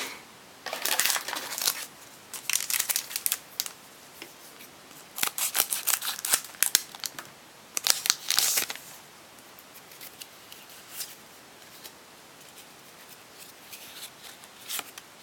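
Foil Pokémon booster pack wrapper being opened and crinkled in a few bursts of crackling rustle, then faint handling of the cards.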